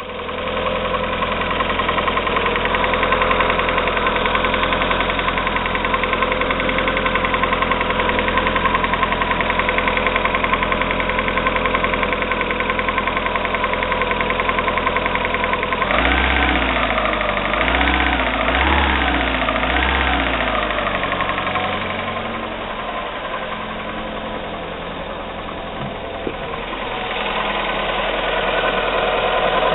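Fiat Doblò 1.6 16v Natural Power petrol/CNG engine running with a fast, regular knocking that the owner puts down to the timing belt. About halfway through the revs rise and fall several times, then the engine settles quieter before picking up again near the end.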